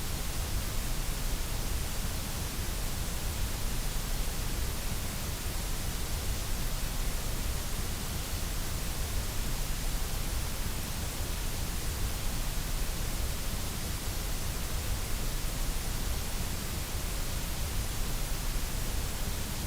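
Steady generated white noise: an even, unchanging hiss spread across all pitches, with no rise, fall or breaks.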